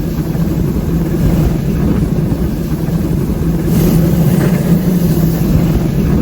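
Train running at speed: a steady low rumble with a constant hum and a brief hiss about four seconds in.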